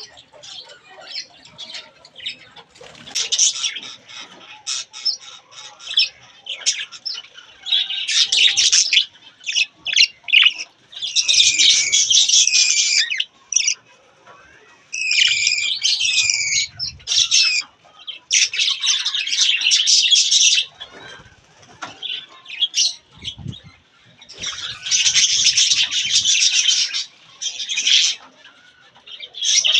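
Budgerigar chicks calling in repeated bouts of about one to two seconds, with short quieter gaps between them.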